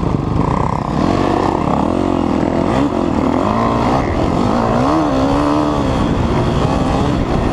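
Dirt bike engines revving, their pitch repeatedly rising and falling as the throttle opens and closes.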